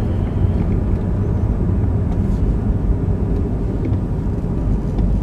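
Steady low rumble of a car running, with no distinct events.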